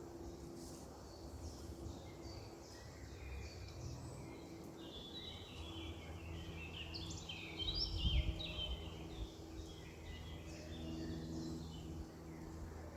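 Small songbirds chirping and singing, busiest around the middle, over a steady low hum. A low thump about eight seconds in.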